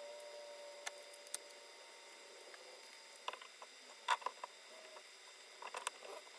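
Faint, scattered light clicks and taps of small craft materials being handled, a few at a time with pauses between.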